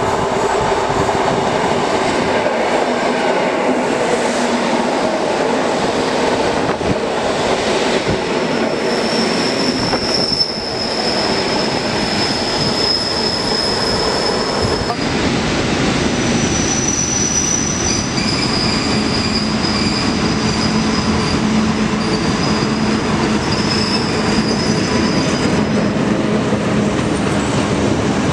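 Two coupled EN57 electric multiple units running into the platform on steel wheels, squealing steadily in the rails. About halfway through, a freight train of open coal wagons hauled by an ET22 electric locomotive rolls past with a steady rumble of wagons, wheel squeal and clickety-clack.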